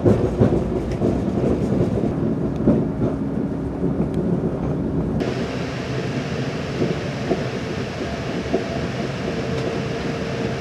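Caledonian Sleeper passenger coach rumbling along the track, heard from inside the carriage, with a faint steady hum. About halfway through the sound abruptly becomes brighter and hissier.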